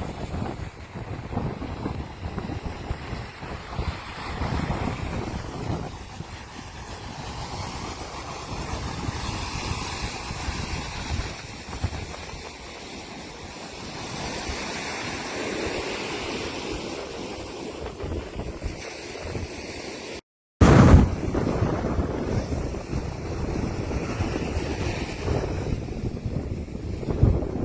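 Strong ocean wind buffeting the microphone over the steady rush of surf breaking in rough, whitecapped seas. The sound drops out for a split second about two-thirds of the way through, then comes back louder.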